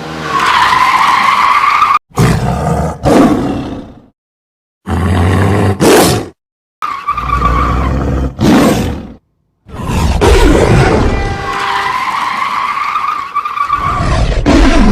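Vehicle engine and skidding tyres with a wavering squeal, heard in several short stretches cut apart by sudden silences.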